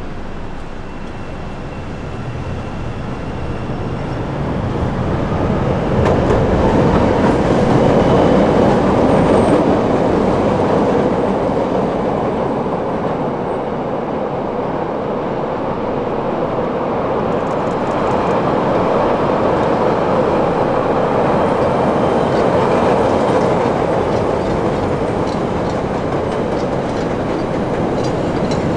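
CTA 'L' rapid-transit train running on the steel elevated track, a steady rolling noise that grows louder from about four seconds in and stays loud.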